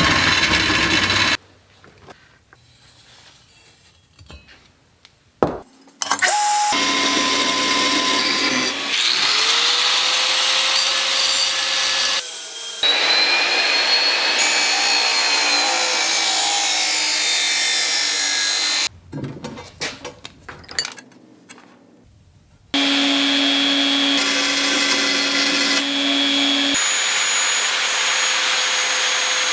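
Electric drill with a step drill bit cutting holes through 14-gauge sheet steel, in several long runs separated by quieter pauses. The motor's whine and the bit's metallic squeal rise and fall in pitch.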